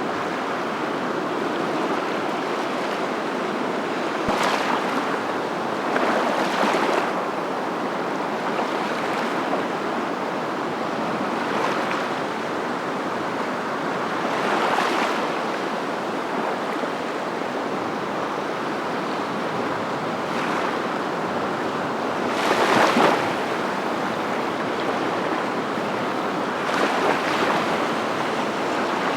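Surf: a steady rush of water, with a wave swelling louder every few seconds.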